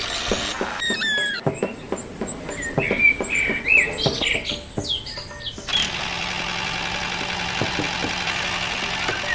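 Short squeaky chirps with scattered clicks, then, about six seconds in, a small motor starts running steadily with an even hum.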